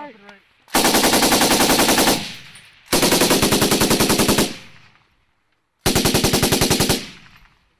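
Belt-fed machine gun firing three short bursts of rapid, evenly spaced shots, about a second and a half each with the last one shorter. Each burst trails off in an echo.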